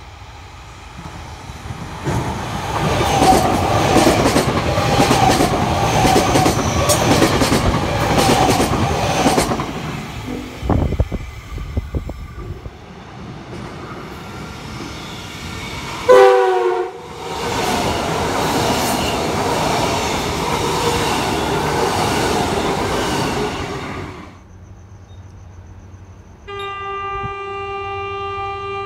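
A train passes with its wheels clicking over the rail joints. About halfway through, a second train gives a short horn blast that drops in pitch as it goes by, the loudest moment, and its passing noise follows. Near the end an approaching train sounds one steady horn note.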